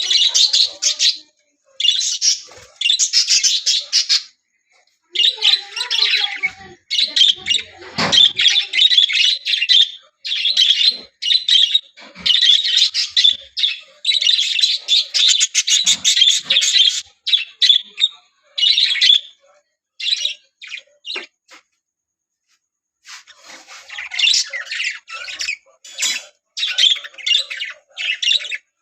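Budgerigars chattering and chirping in fast runs of a few seconds, broken by short pauses.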